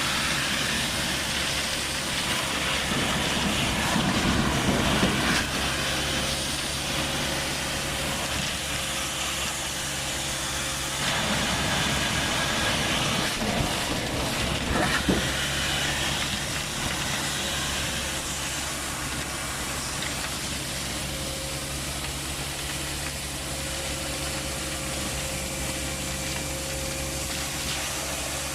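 Vacuum excavator running: a steady engine drone under a strong rushing hiss of suction air. A few brief knocks sound, and it grows louder for a few seconds midway.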